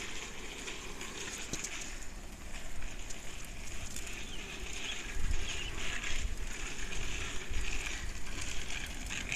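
Wind buffeting the microphone while riding a bicycle, an uneven low rumble over a steady rush of outdoor noise that gets gustier about halfway through.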